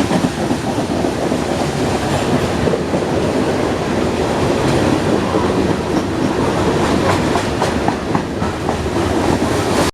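A loaded coal train passing close by: the steady rumble and clickety-clack of its wheels and hopper cars on the rails.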